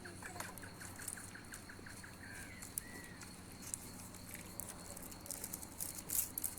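A bird calling a rapid, even series of short chirps, about four or five a second, which stops about two seconds in and is followed by a couple of short whistled notes. Faint scattered clicking throughout, busier near the end.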